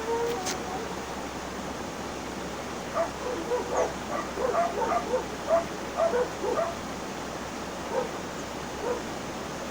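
Steady rush of flowing water with a run of short, high-pitched yips or squeaks, many in quick succession from about three to seven seconds in, then a couple more singly.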